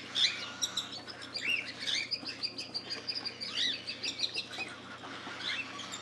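Young cockatiels chirping over one another, with many short rising-and-falling calls in quick succession from several birds at once.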